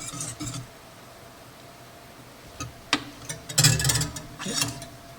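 Stirring in a pan trails off, then kitchen utensils and containers are handled: a sharp click about three seconds in, followed by a brief clatter of knocks.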